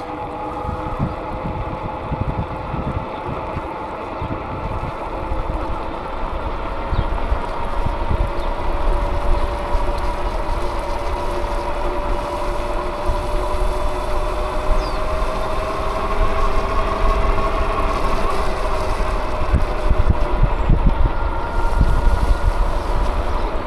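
Steady motor whine from a ridden vehicle, its pitch creeping slowly up and settling, over wind rumbling and buffeting on the microphone.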